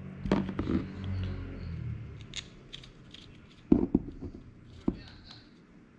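Small tools and metal motor parts handled on a workbench while a brushless drone motor is being screwed back together after a bearing change: a low hum in the first two seconds, then separate clicks, knocks and light scrapes, the sharpest a quick cluster a little under four seconds in and one more near five seconds.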